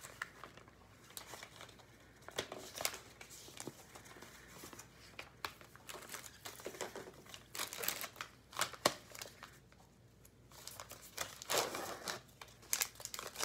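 Plastic and paper wrappers of IV supplies crinkling and tearing as they are opened and handled, with scattered small clicks and taps of the plastic parts.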